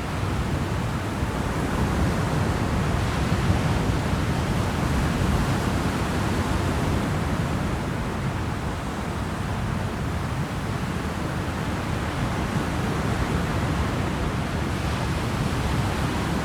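Steady rushing noise aboard a moving ferry: wind and water along the hull, with a heavy low rumble under it.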